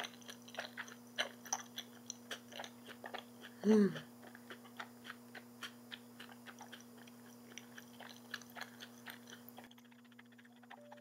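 Close-miked chewing of boneless fried chicken coated in a Cheongyang-chili mayo sauce: many small crunches and wet mouth clicks in an uneven stream, with a brief hum about four seconds in.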